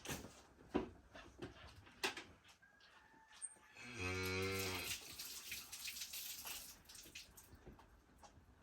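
A cow mooing once: a single short, low, steady call about halfway through. Scattered light knocks and clicks come before and after it.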